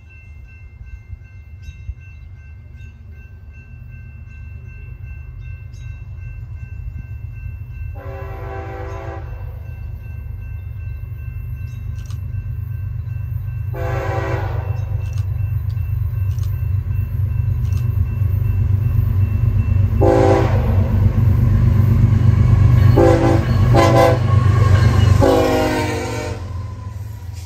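BNSF diesel freight locomotive approaching and passing with its chord horn sounding: long blasts about every six seconds, then two short blasts and a final long one near the end. Underneath, the engine and wheels rumble, growing steadily louder as the train draws near and peaking as the locomotive goes by.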